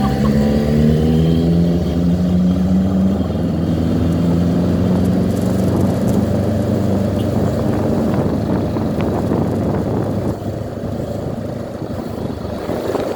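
Motorcycle engines running in a large group ride. The engine note wavers in pitch for the first few seconds, then settles into steadier, noisier running.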